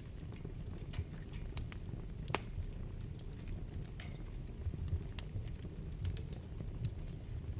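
Wood fire burning in a fireplace: a steady low rumble of the flames with irregular sharp crackles and pops from the burning logs, the loudest pop a little over two seconds in.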